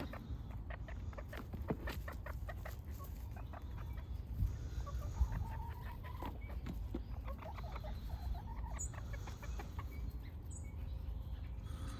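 Backyard hens clucking softly, with short pitched calls in the middle, over a steady low wind rumble on the microphone. A run of short ticks and taps fills the first half.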